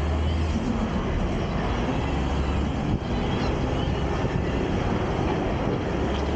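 Garbage truck's diesel engine running steadily, a heavy low rumble with mechanical noise over it.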